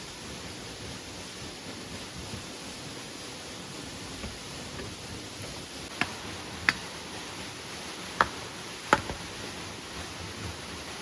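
Steady hiss of rain, with four sharp knocks between about six and nine seconds in.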